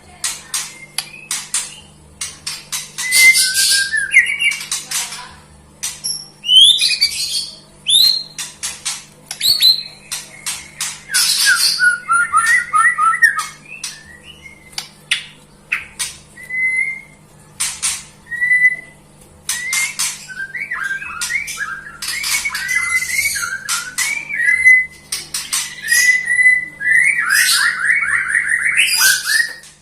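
White-rumped shama (murai batu) singing a long, varied song of clear whistles, quick trills, harsh rasping notes and sharp clicking chips, with brief pauses between phrases.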